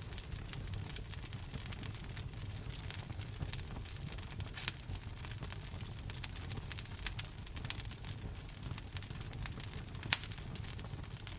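Wood fire crackling in a fireplace: a steady low rumble of the flames with many quick snaps and pops from the burning logs, two sharper pops a little before the middle and near the end.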